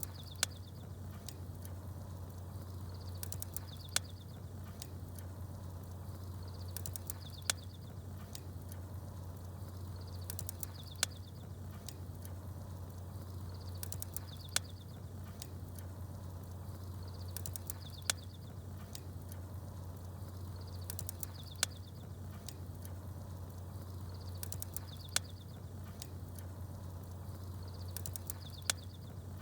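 Small birds chirping in a short high phrase that repeats about every three and a half seconds, each phrase followed by a sharp pop from a crackling campfire, over a steady low rumble.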